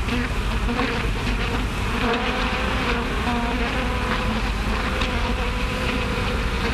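Swarm of bees buzzing: a steady, loud drone with a few tones that waver in pitch.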